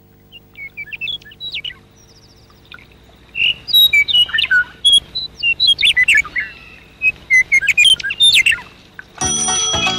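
Several songbirds chirping and whistling in quick short phrases over a low steady hum. Music starts near the end.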